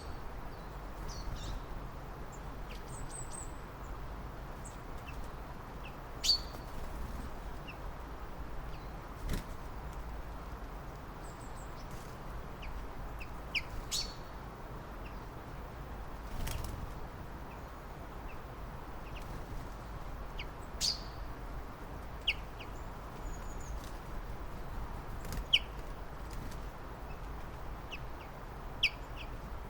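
Scattered short, sharp bird calls, about one every two or three seconds, over a steady background hiss.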